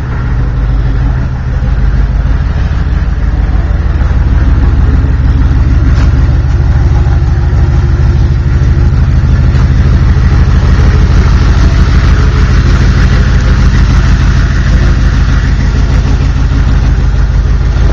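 Truck engine idling steadily, a loud, even low rumble that steps up slightly about a second and a half in.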